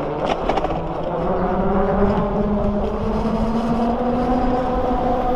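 Freego X2 electric dirt bike's motor whining as it rides, the pitch rising slowly and steadily as the bike gathers speed, over a low rumble of wind and tyres.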